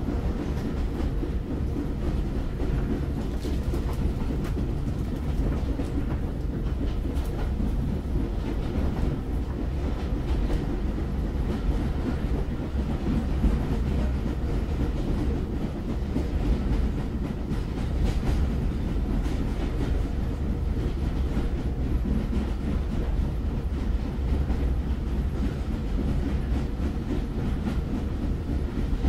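Train running along the track: a steady low rumble with faint, irregular clicks of the wheels over the rails.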